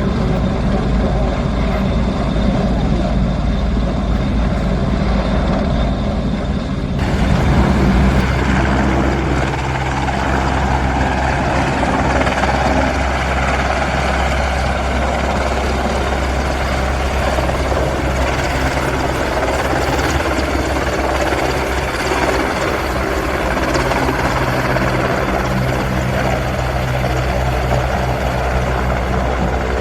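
A helicopter's engine and rotor running steadily, with a low, even hum. About seven seconds in the sound changes abruptly, as at a cut in the recording, and the helicopter continues steadily after it.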